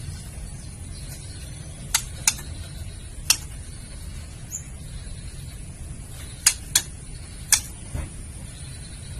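Female white-rumped shama giving its sharp 'kretekan' clicking call: six short, hard clicks, several in quick pairs, over a steady low background rumble, with a soft low thump near the end.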